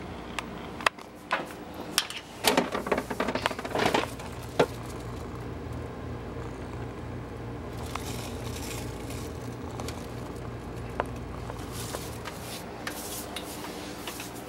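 Steady low appliance hum with a scatter of clinks and knocks of kitchen items being jostled, busiest between about two and four seconds in.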